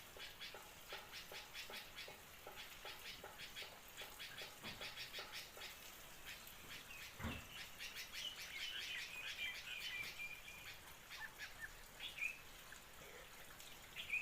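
Small birds chirping: a run of short chirps repeated several times a second, then a longer warbling call, with a single soft thump between them.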